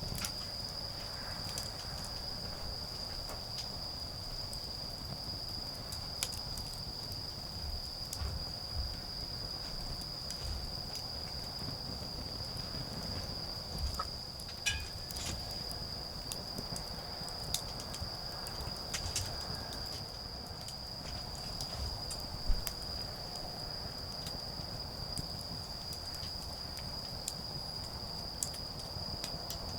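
Autumn insects, crickets, trilling in one steady high unbroken note, over the scattered crackles and pops of a burning wood campfire, with one sharp louder pop about two-thirds of the way in.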